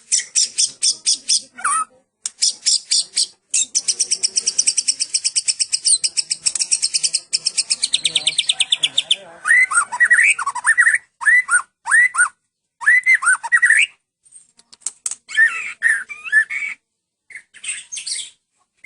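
White-rumped shama (Medan murai batu) singing: a long run of rapid, evenly repeated high chips, about eight a second, then loud whistled phrases that slide up and down, broken by short pauses. The rapid chipping series is the cililin-style imitation that shama keepers prize.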